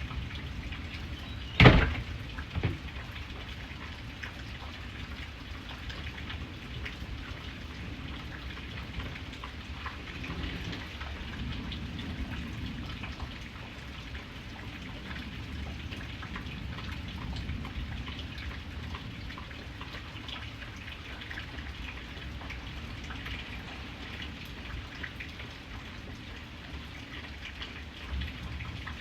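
Steady rain falling and pattering on surfaces. A sharp crack stands out about two seconds in, followed by a smaller one just after.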